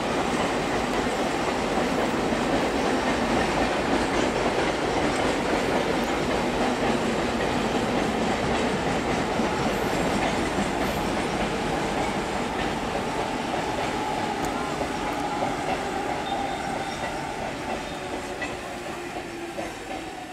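ICF Medha electric multiple-unit train running along the rails: a steady rolling noise that fades over the last several seconds, with a faint whine gliding slightly lower in the second half.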